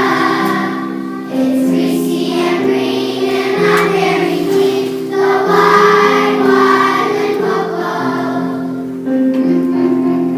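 Children's choir singing a song together over musical accompaniment.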